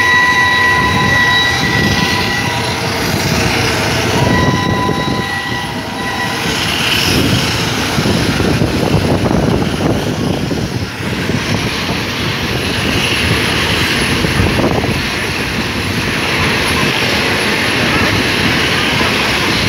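A train whistle sounds twice, a chord of several pitches held for about two seconds at the start and again a couple of seconds later. Under it and after it comes the continuous rumble and clatter of a steam-hauled passenger train running at speed, heard from an open carriage window with wind on the microphone.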